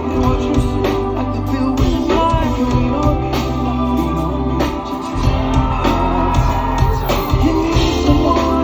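Live pop band music: a steady drum beat and bass under a singing voice.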